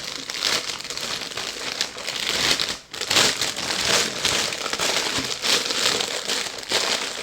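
A bag crinkling and rustling as small items are packed back into it, with a brief pause about three seconds in.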